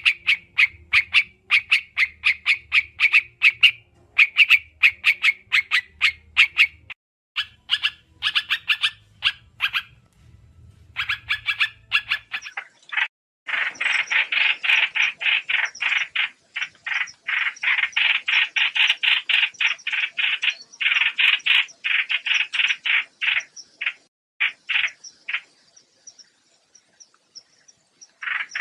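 White-eye calling: rapid runs of short, high chirping notes, several a second, with a brief pause about halfway and a denser run after it that thins out near the end. This is a lure call recording used for bird trapping.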